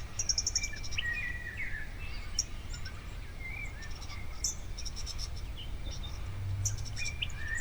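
Small birds chirping and whistling in short, scattered calls, with an insect giving brief, fast, high-pitched trills near the start and again near the end.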